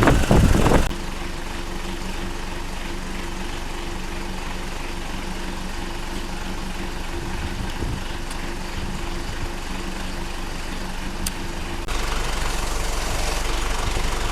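An engine idling steadily with an even hum. Near the end the sound changes abruptly to a deeper, steady rumble.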